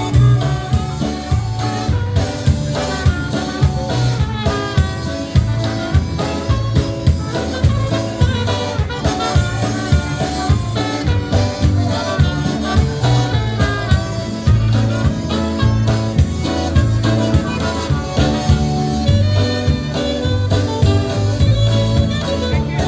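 Live polka band playing an instrumental polka with an alto saxophone lead over a bass and drum kit keeping a steady, even beat.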